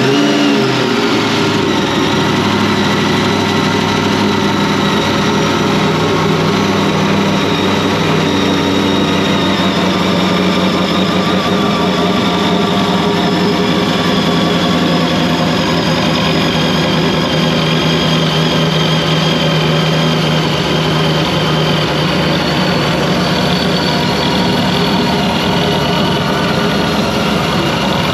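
LS V8 just after starting: its revs fall from the start-up flare over the first couple of seconds, then it settles into a steady idle.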